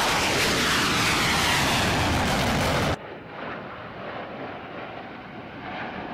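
Aircraft flying past low, loud, with a whine falling in pitch as it goes by, cut off abruptly about three seconds in. Then a quieter, duller aircraft engine sound follows.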